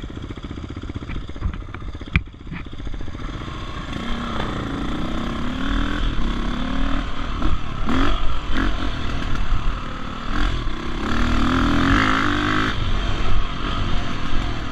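Dirt bike engine pulsing at low revs, then from about four seconds in revving up and down repeatedly as the bike is ridden along the trail.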